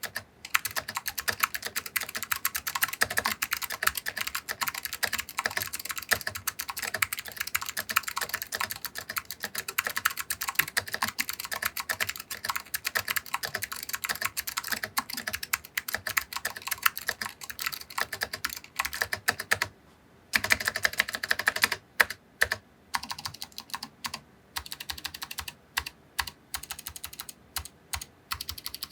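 Typing on a mechanical keyboard with new-old-stock SKCM Blue Alps switches, clicky by design, on a stainless steel plate with dye-sub PBT keycaps. Fast continuous keystrokes give way, after a short pause about two-thirds through, to slower, separate key presses.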